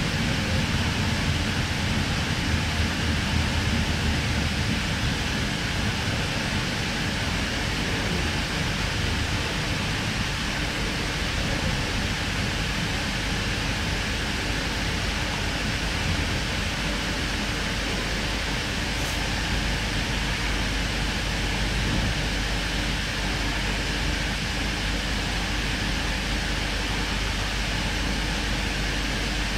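Cabin noise inside a K-set double-deck electric train: a steady rumble and hiss, heavier low rumble in the first few seconds easing as the train slows into a station and stands at the platform.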